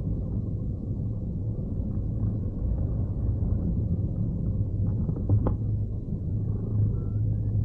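Steady low rumble of wind buffeting the microphone as a hang glider flies.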